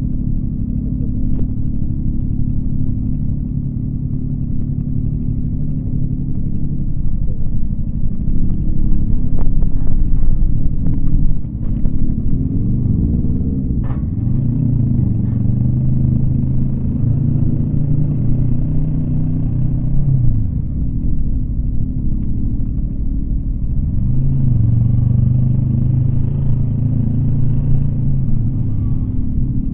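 Yamaha MT-25 parallel-twin engine running under way, its revs rising and falling. It builds to its loudest just before a sudden drop in revs about eleven seconds in, then changes pitch several more times.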